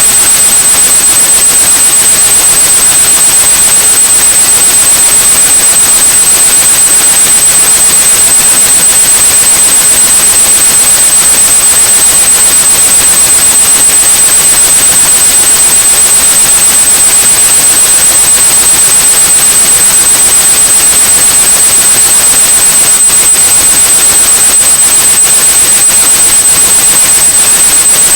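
Steady white noise with a continuous high pure tone of about 8,100 Hz held over it, played as a tinnitus-masking sound.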